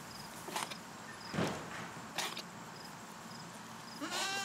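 Crickets chirping, with a few brief soft rustles, and near the end a single short quavering bleat from a farm animal.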